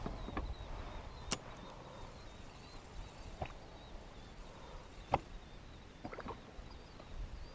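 Scattered sharp knocks and taps on a fishing kayak, six or so spread a second or two apart, over a low rumble of wind on the microphone.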